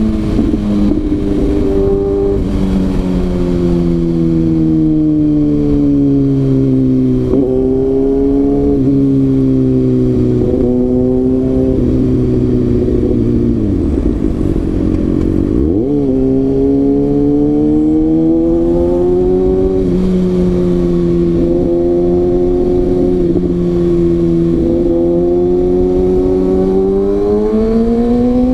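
Kawasaki ZX-6R's inline-four engine while riding, its pitch rising and falling with the throttle and gear changes. Near the middle the revs drop away, then climb sharply again.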